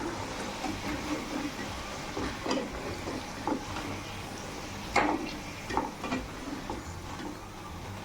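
Chicken pieces frying in a kadai of hot oil with a steady sizzle, broken by several short knocks and scrapes of a spoon against the pan as the fried pieces are lifted out, the loudest about five seconds in.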